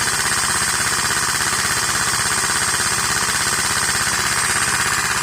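Lego vacuum engine running fast on vacuum-cleaner suction: a rapid, even clatter of its pistons over a steady high whine from the vacuum cleaner.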